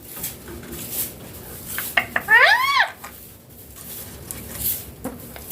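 A parrot gives one short rise-and-fall call about two seconds in, amid scattered clicks and light clatter.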